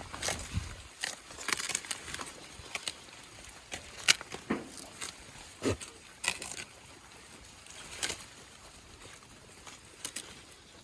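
Goats feeding on cut kumbi tree fodder: irregular rustling of leaves with scattered sharp snaps and knocks.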